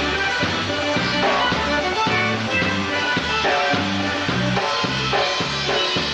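A band playing rock music with drum kit, a moving bass line and guitar, at steady volume.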